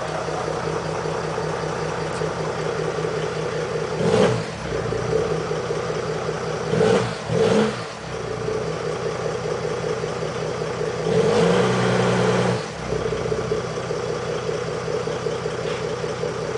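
2007 Jeep Grand Cherokee CRD's 3.0 V6 turbodiesel idling through a straight-piped exhaust with the resonator removed, blipped up once about four seconds in, twice in quick succession about seven seconds in, and held up for about a second and a half near twelve seconds before dropping back to idle.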